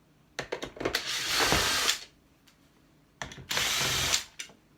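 Power drill running in two bursts, the first about one and a half seconds long and the second about a second, each starting with a few short stutters, while driving screws out of an appliance being stripped for scrap.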